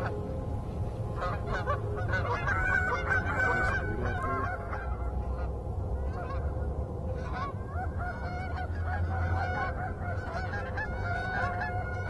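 A flock of Canada geese honking, many short calls overlapping throughout.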